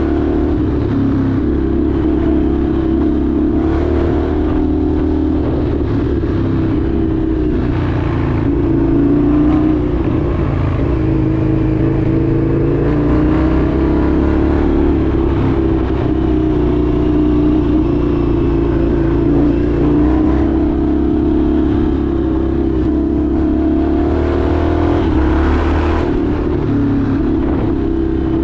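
Indian FTR 1200's V-twin engine running while riding, its pitch rising and falling gently with the throttle, steady and loud throughout.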